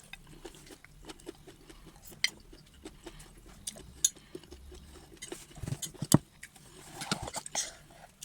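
Close-miked eating sounds of someone eating rice and stew: soft chewing and mouth noises with a scatter of sharp clicks, the loudest about six seconds in.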